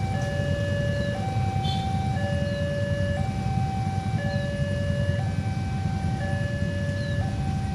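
A two-tone electronic warning alarm, alternating between a lower and a higher pitch about once a second, over a steady low engine rumble.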